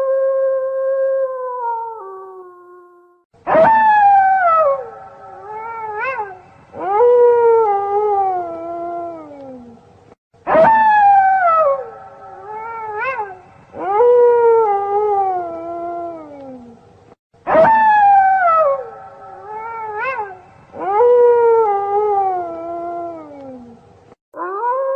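A pack of wolves howling together: several overlapping howls that slide down in pitch, with a short rising yelp among them. The same sequence repeats three times, about every seven seconds, after one long, level howl at the start.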